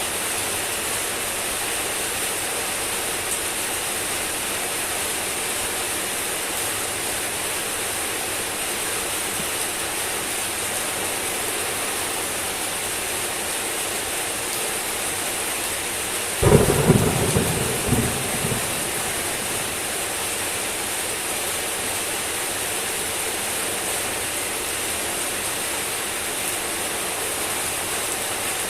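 Steady heavy rain falling, with a sudden clap of thunder a little past the middle that cracks and rumbles for about two seconds before the rain carries on alone.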